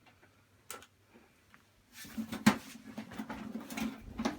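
Scattered clicks and knocks of a Laserdisc player's casing and screws being handled during disassembly, the loudest knock about two and a half seconds in, with a low steady hum from about halfway through.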